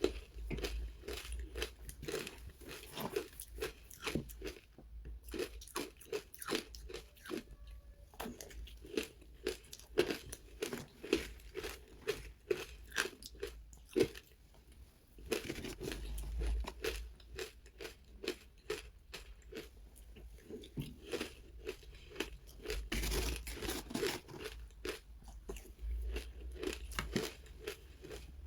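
Close-up chewing and crunching of powdery, matcha-dusted frozen ice, a rapid run of soft crunches. The crunching eases briefly about five seconds in, then returns denser and louder in stretches.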